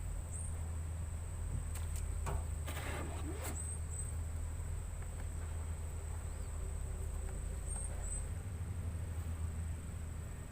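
Insects, such as crickets, trilling on one steady high pitch over a constant low rumble, with a few brief rustles and clicks about two to three and a half seconds in.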